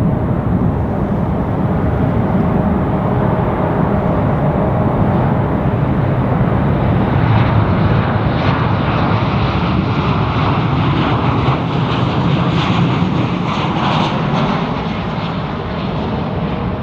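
Jet airliner arriving at low altitude and passing the listener: a steady low rumble, with a hiss of engine noise that builds from about seven seconds in, is loudest around twelve to fourteen seconds, then falls away near the end.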